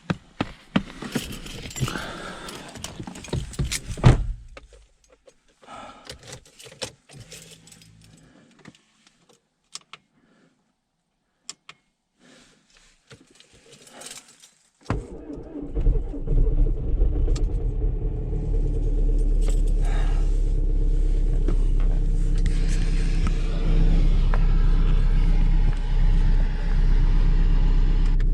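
Keys jangling and clicks of handling, with a sharp knock about four seconds in, then near quiet. About halfway through, the Audi A3's engine starts abruptly and runs steadily.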